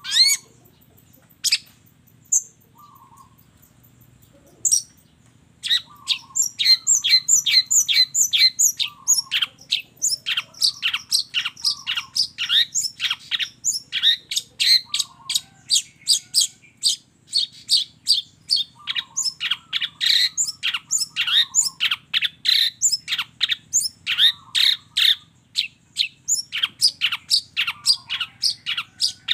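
Long-tailed shrike (cendet) singing: a few scattered calls, then from about six seconds in a fast, unbroken run of sharp, downward-sweeping notes, several a second.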